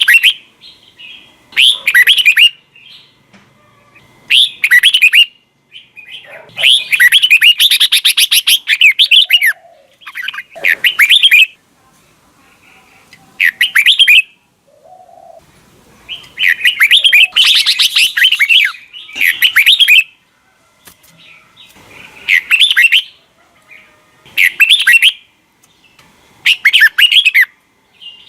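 Red-whiskered bulbul singing: loud, short warbled phrases, each about a second long, repeated every two to three seconds with brief pauses between.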